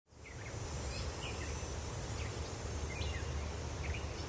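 Forest ambience fading in: birds chirping in short scattered calls over a steady low rumble, with a thin high insect drone that stops about three seconds in.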